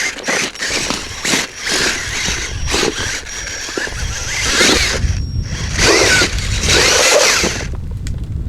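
Radio-controlled off-road model car being driven, its motor whining in repeated bursts of throttle.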